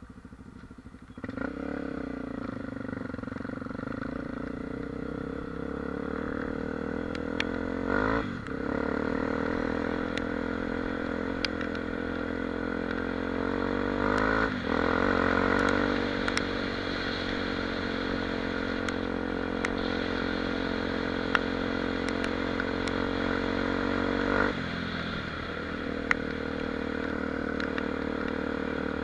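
Honda XR 250 Tornado's single-cylinder four-stroke engine running under way, getting louder about a second in. It breaks off briefly twice, at about eight and fourteen seconds in, as gears change, and eases off a few seconds before the end, with scattered light ticks over the engine note.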